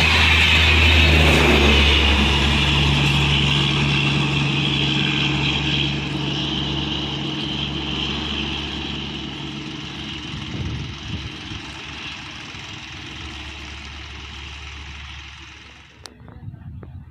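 Passenger train of LHB coaches running past and away, with the rush of wheels on rail over a steady low hum. The sound fades steadily and cuts off sharply about 16 seconds in.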